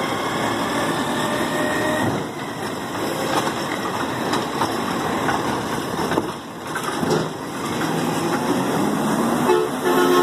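Garbage truck working a bin: the engine runs under load while the hydraulic lift arm shakes the can to empty it, with a thin whine over the first two seconds and rattles and knocks throughout. A short higher-pitched sound comes near the end.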